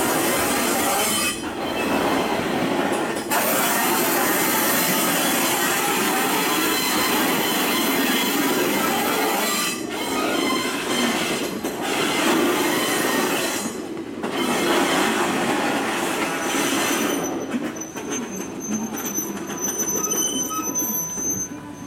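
Loud train noise: a dense, steady rumble and rattle of rail vehicles that dips briefly a few times. Near the end it dies down, and thin, high wheel squeal rings out.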